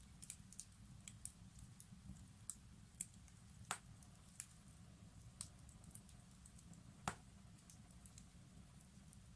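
Wood fire crackling in a fireplace: scattered small snaps and ticks, two louder pops, over a steady low rumble.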